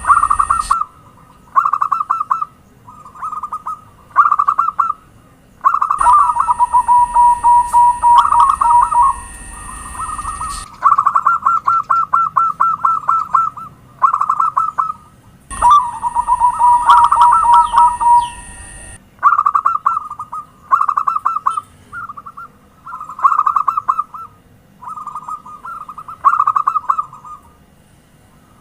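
Zebra dove (perkutut) song: short, rapid, staccato cooing trills repeated phrase after phrase with brief pauses. A steady high whine runs under some stretches.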